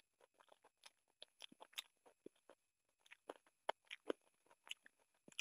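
Close-miked chewing of chicken curry and rice eaten by hand: an irregular run of soft wet smacks and clicks, several a second.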